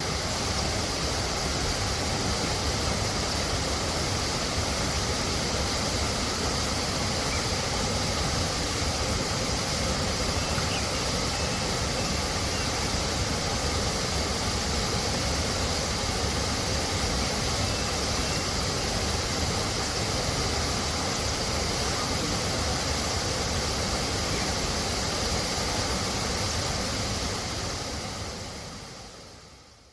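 Waterfall cascading over rocks: a steady, even rush of falling water, with a few faint bird chirps above it. The sound fades out near the end.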